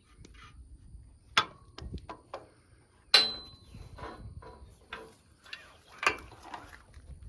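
Scattered metal clicks and knocks as a pipe-thread fitting on a hydraulic hose is worked into a disc harrow's hydraulic cylinder. The loudest is a sharp metallic clank about three seconds in that rings briefly.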